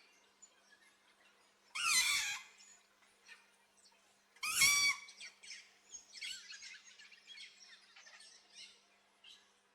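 Green-winged macaw giving two loud, harsh squawks, about 2 and 4.5 seconds in, over faint chirping from smaller birds.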